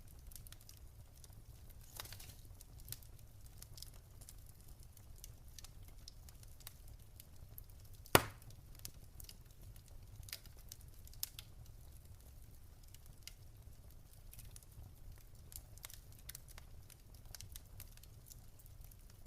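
Wood fire in a fireplace crackling with scattered small pops over a low steady rumble, and one sharp, loud pop about eight seconds in.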